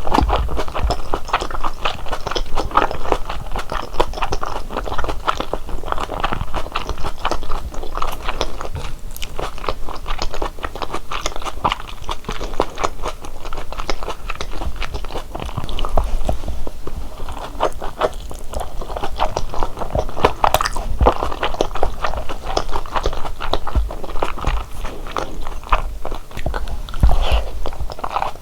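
Close-miked biting and chewing of large Korean dumplings (wangmandu): a dense, continuous run of small wet clicks and mouth sounds.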